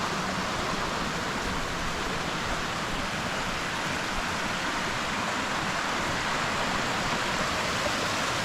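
Fast-flowing river water rushing steadily, a constant even hiss of falling and tumbling water.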